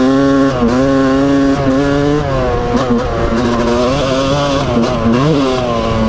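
Yamaha YZ250 two-stroke dirt bike engine running under way, its pitch dipping briefly and climbing back several times as the throttle is eased off and reopened.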